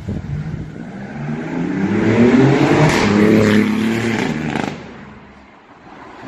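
BMW i8 with a loud aftermarket exhaust accelerating, its exhaust note climbing in pitch and growing louder, then dying away about five seconds in.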